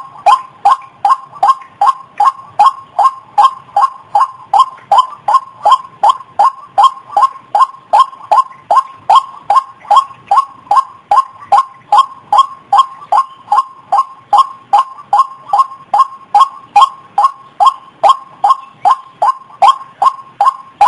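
White-breasted waterhen call, a lure recording of short pitched notes repeated steadily at about two and a half a second.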